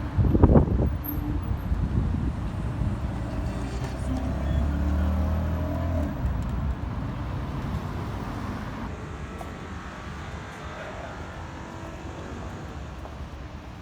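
City street traffic: a motor vehicle's engine runs close by, loudest a few seconds in and then fading into a steady street hum. A sharp knock sounds about half a second in.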